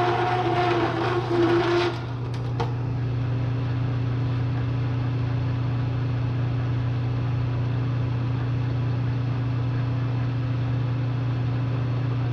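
A hole saw cutting into steel on a Bridgeport milling machine: a grinding, scraping cut with a steady squeal that stops abruptly about two seconds in. After a couple of light clicks, only the machine's electric motor keeps running with a steady low hum.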